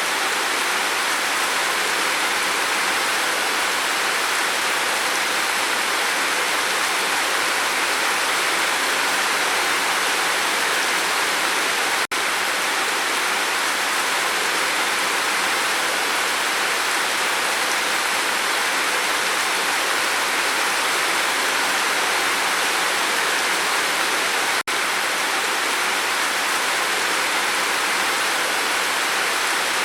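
Steady rain falling on a roof, a dense even hiss that breaks off for an instant twice, about twelve seconds apart.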